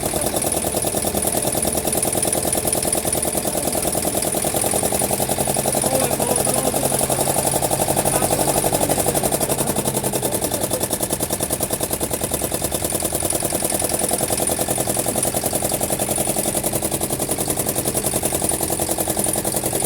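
Engine running steadily with a fast, even chugging beat.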